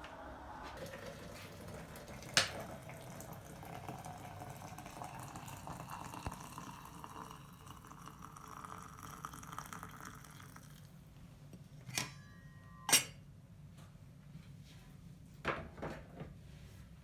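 Water running into a vessel for about eleven seconds, with a slowly rising note as it fills. There is a sharp click a couple of seconds in, and a few sharp knocks near the end.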